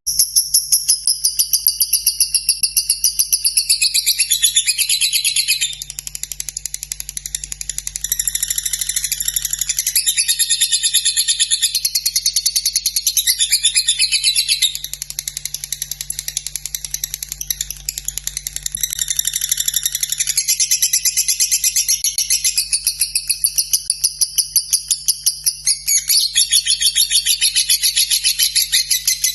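Lovebird singing a long, unbroken 'ngekek' song: a fast chattering run of repeated high notes that carries on throughout, easing off briefly a few times.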